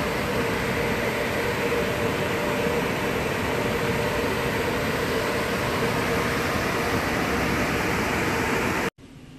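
Car wash equipment running: a steady, even rush of noise with a faint hum, heard from inside the car. It cuts off suddenly near the end, leaving a much quieter hiss.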